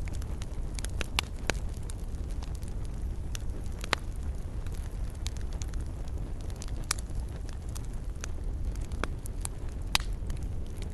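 Wood fire burning in a fireplace: a steady low rumble of flames with irregular sharp crackles and pops, two louder snaps about four seconds in and near the end.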